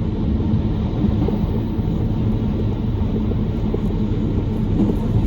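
Steady low rumble of a JR Kyushu 883 series electric limited express train running, heard from inside the carriage.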